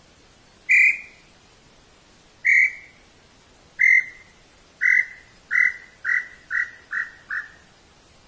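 An animal call: nine clear notes on one steady pitch. They start well spaced, then come faster and closer together, growing a little quieter toward the end.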